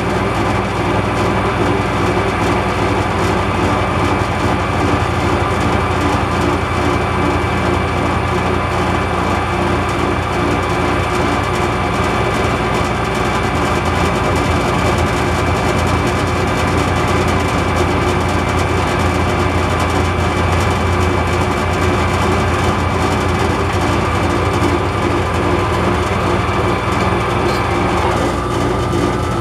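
A machine-shop power tool running steadily while trimming a metal part: a constant whine over a low hum. Near the end the whine shifts in pitch.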